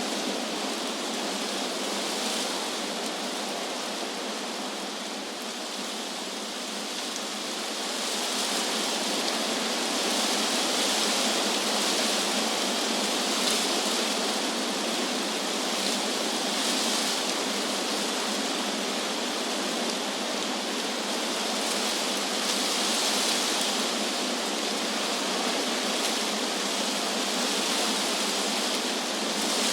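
Wind blowing through trees: a steady rushing hiss that eases a little about five seconds in and swells again from about eight seconds on, in gentle gusts.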